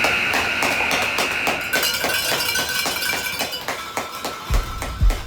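Arena horn sounding a steady high tone that fades out about two seconds in, over rapid clicking and tapping. Music with a deep thumping beat comes in near the end.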